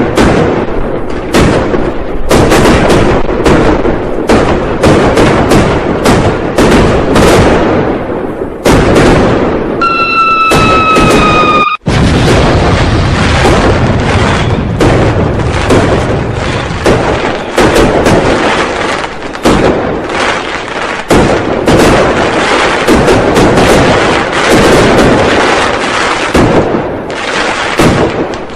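A dense, continuous barrage of New Year firecrackers and fireworks going off, bang after bang with no pause. About ten seconds in, a whistle rises over the bangs and slides slightly down in pitch for under two seconds. The sound cuts out for an instant just before twelve seconds.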